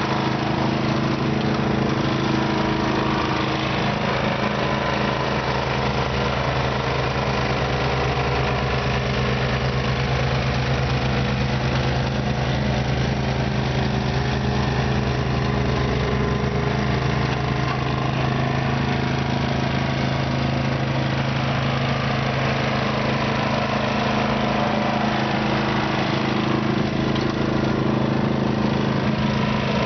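Simplicity snow blower's engine running at a steady speed, with a constant pitch and no change in level.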